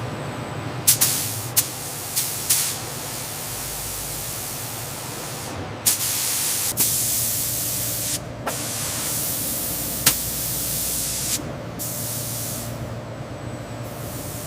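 Spray gun applying anti-friction coating to a forged aluminium piston: spells of hissing spray that start and stop several times, several of them marked by a sharp click, over a steady low machine hum.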